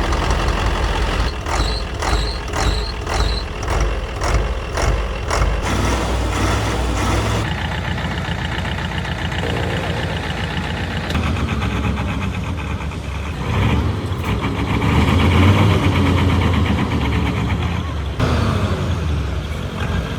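Mercedes truck's diesel engine running, with a run of four or five short high beeps about two a second early on, and the engine revving up for a few seconds past the middle.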